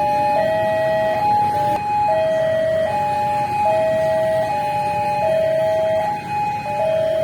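Railway level-crossing warning alarm sounding: a two-tone electronic alarm alternating between a high and a low note, each held for under a second, with a second alarm overlapping slightly out of step.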